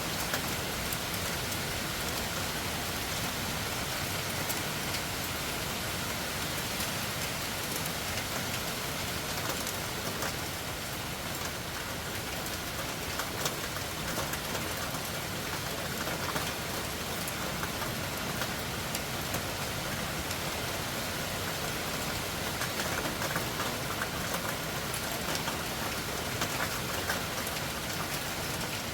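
Loud rain falling steadily, a dense patter of drops with scattered sharper drip ticks.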